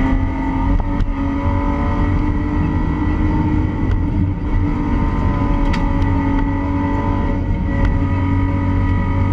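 Mercedes rally car's engine running steadily under power, heard from inside the cabin, with a few sharp clicks over it.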